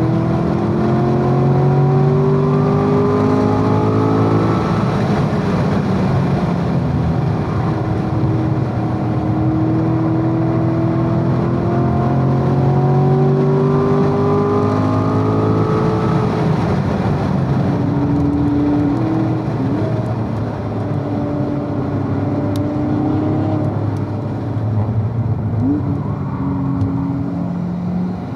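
Chevrolet Corvette Z51's 6.2-litre LT1 V8 heard from inside the car at racing speed, rising in pitch through two long pulls that end about five and about sixteen seconds in. After that it runs lower and more evenly as the car slows, with two brief rev blips, over steady wind and tyre noise.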